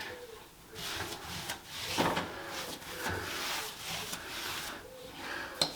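Sandpaper being rubbed by hand across a ceiling in uneven, irregular strokes, sanding back the surface ready for filling.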